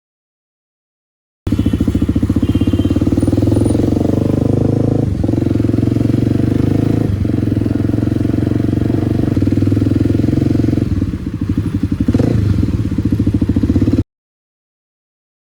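Kawasaki D-Tracker 250's single-cylinder four-stroke engine, fitted with an aftermarket White Brothers exhaust, running steadily under way with a brief easing of the throttle near the end. The sound cuts out completely for about a second at the start and again near the end.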